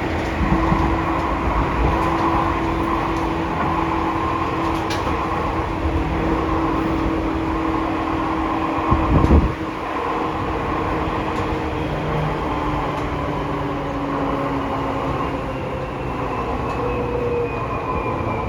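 Running noise inside a Seibu New 2000 series electric train car, a field-chopper-controlled EMU with DC compound motors: a steady rumble of wheels on track with steady whining tones. There is one heavy thump about nine seconds in, and a high whine falls in pitch over the last few seconds.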